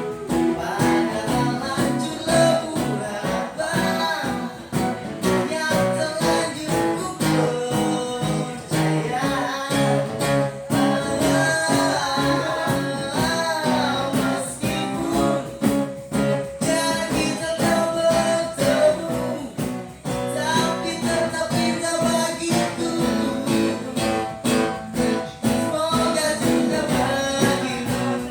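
Acoustic guitar played with strumming, with a voice singing a melody over it.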